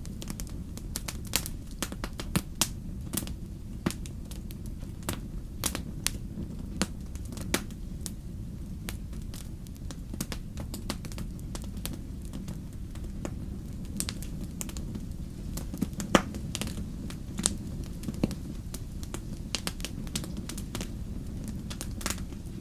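Wood campfire crackling: irregular sharp pops and snaps over a steady low rumble of the burning fire, with one louder pop about sixteen seconds in.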